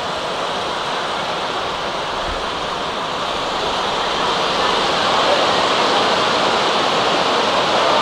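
Steady rushing noise of rain falling, growing a little louder about halfway through.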